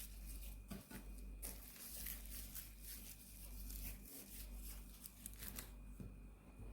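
Faint rustling and crinkling with scattered light taps and clicks as a kimbap roll is handled and brushed with sesame oil.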